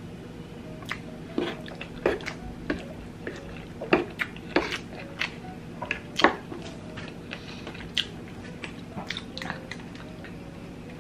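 Close-miked chewing of a mouthful of spaghetti in sauce: irregular wet smacks and clicks of the mouth, one to three a second, easing off near the end.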